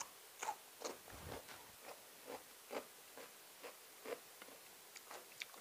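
A person chewing a mouthful of canned-fish salad with fresh vegetables, with faint crunching chews about twice a second.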